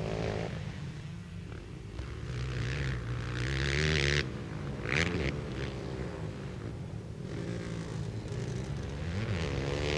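Racing quad ATV engines running around a dirt flat track, one growing louder to a peak about four seconds in before cutting off sharply.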